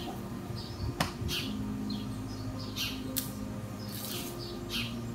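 Small birds chirping over and over, short high chirps every half second to a second. There is a sharp click about a second in and another a little after three seconds.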